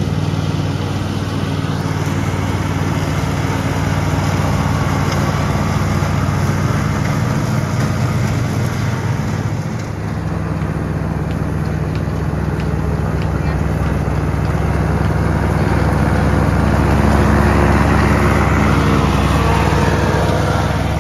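John Deere Z320R zero-turn mower's engine running steadily under mowing load. About ten seconds in it dips briefly and comes back fuller and deeper.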